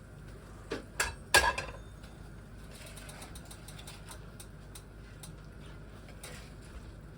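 Kitchen utensils clattering against cookware: three sharp knocks about a second in, the last the loudest, followed by scattered light clicks and scraping.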